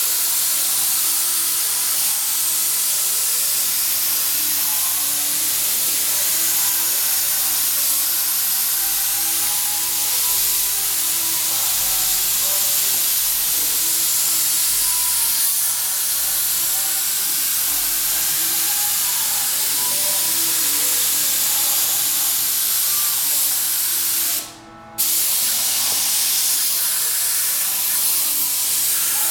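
Compressed-air mini paint spray gun spraying with a steady hiss, cutting off for a moment about 24 seconds in before resuming.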